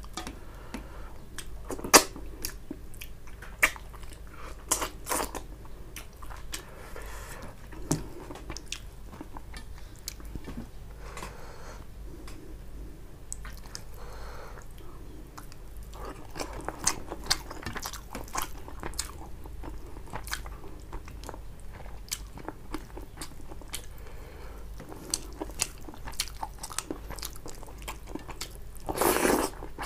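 Close-miked eating of tilapia fish curry with rice: wet chewing and biting with sharp mouth clicks and crunches scattered throughout, and a louder burst of chewing near the end.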